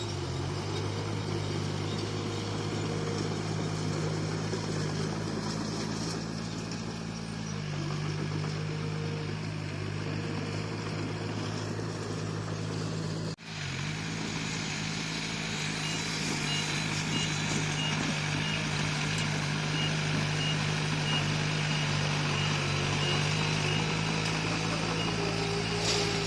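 Bulldozer's diesel engine running steadily at working revs. A brief break comes about halfway, and in the second half a backup alarm beeps at a regular pace.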